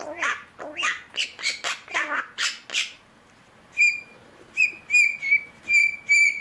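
Pet myna bird chattering in rapid, speech-like bursts for about three seconds, then giving a run of short, clear whistled notes at one steady pitch, about two to three a second.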